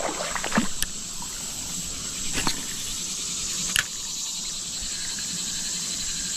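Steady, high insect chirring over outdoor background hiss, with a few short, sharp clicks or splashes: about half a second in, at two and a half seconds, and near four seconds.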